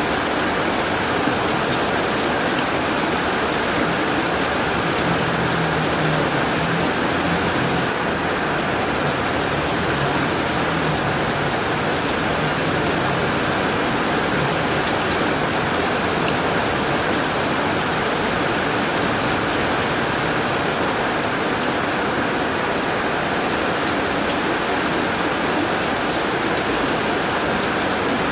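Heavy rain drumming steadily on a tin roof, a dense, even patter with scattered sharper drop ticks.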